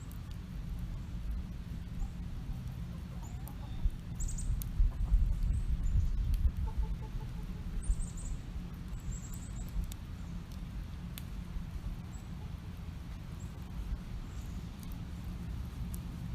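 Chickens clucking softly among a few short, high, falling chirps of wild birds, over a low steady rumble with scattered crackles from a wood campfire.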